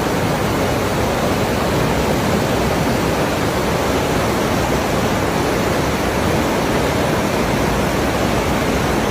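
Fast floodwater rushing, a loud, steady, even roar.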